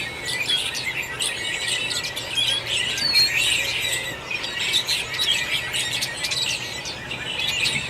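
A chorus of many birds calling from the trees in mating-season courtship: a dense, overlapping stream of high chirps, squeaks and short squeals with no break.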